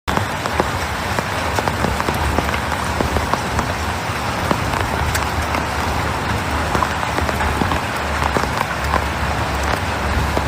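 Heavy rain falling steadily on hard surfaces: a constant hiss with many separate drops ticking through it.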